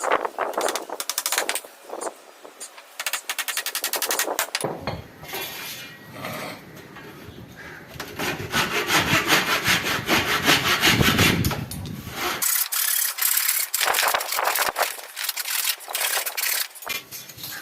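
Saw cutting wood in repeated back-and-forth strokes, with a denser, heavier stretch in the middle.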